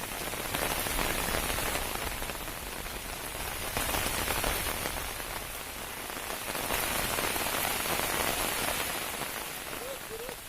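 Heavy rain falling, its hiss swelling and easing in slow waves.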